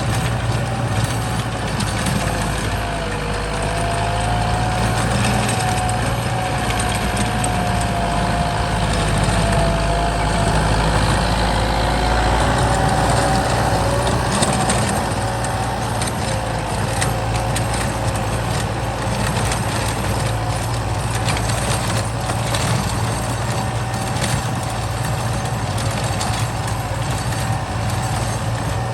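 Kubota M8540 tractor's diesel engine running steadily while pulling a plow, with a wavering whine over the first half.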